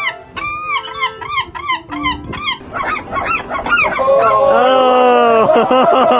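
A large bird giving a quick series of short honking calls, then a longer, louder held call about four seconds in.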